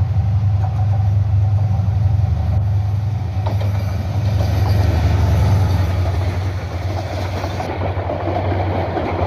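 Train running, with a steady low rumble.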